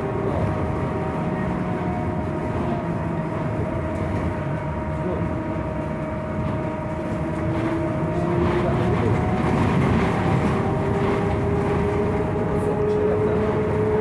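Scania trolleybus on the move, heard from inside: the electric drive's steady whine tones over a heavy rattle and road noise, with one whine that climbs in pitch through the second half as the bus gathers speed, louder from about eight seconds in.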